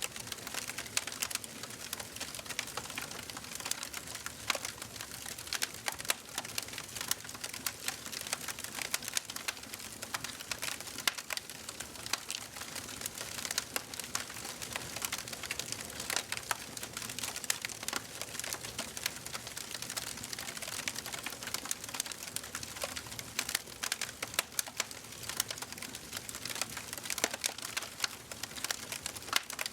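Wood fire burning in a fireplace, crackling and popping constantly over a soft hiss, with irregular sharp snaps.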